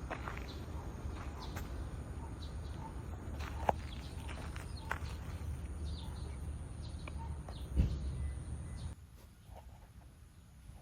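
Outdoor background: a steady low rumble with scattered short chirps and clicks, and a couple of sharper knocks. It drops suddenly to a quieter background about nine seconds in.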